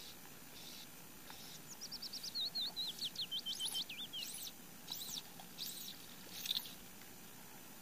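A songbird singing: a fast run of short whistled notes, then five loud up-and-down slurred whistles at an even pace.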